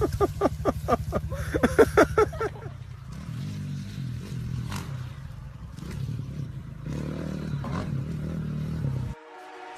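Motorcycle engine running and revving, with a rapid regular pulsing for the first two and a half seconds, then a steadier engine note that rises and falls. It cuts off abruptly near the end.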